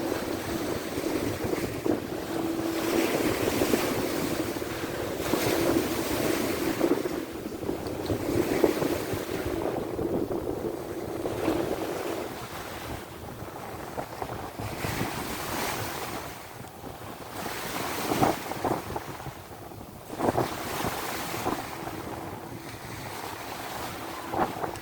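Sea waves washing ashore in repeated surges every few seconds, with wind buffeting the microphone.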